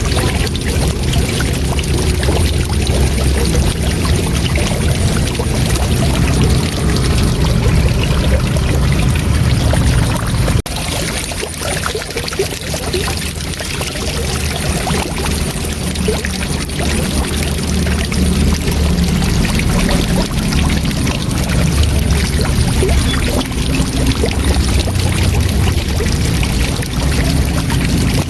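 Waterfall rushing steadily with a heavy low rumble; the sound breaks off sharply and drops in level about ten seconds in, then carries on.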